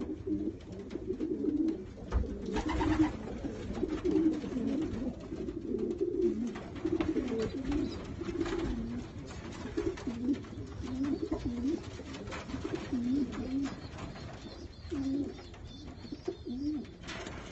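Racing pigeons cooing in a loft: many low, repeated, overlapping coos, with a couple of brief rustles.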